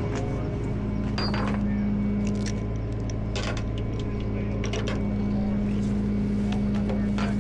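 Truck engine idling steadily, with a few short metallic knocks or clanks over it, about a second in, halfway through and near the end.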